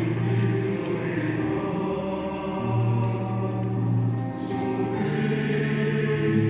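Mixed choir singing long held chords, the low voices sustaining deep notes that change every second or two, with a brief sharp click about four seconds in.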